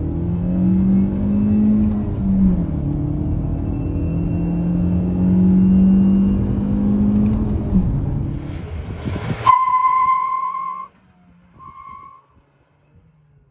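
Dacia Duster's 1.3 TCe turbocharged four-cylinder pulling hard in a 0-100 km/h run, its note climbing in each gear and dropping at two gear changes, about two and a half and eight seconds in. Near ten seconds the engine sound cuts off after a short burst of noise. A steady high beep follows for about a second, then a shorter one near twelve seconds.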